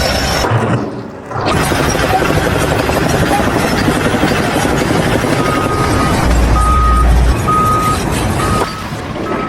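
Heavy machinery running loudly, with a short steady beep repeating about once a second through the second half, like a vehicle's warning alarm. There is a brief break about a second in.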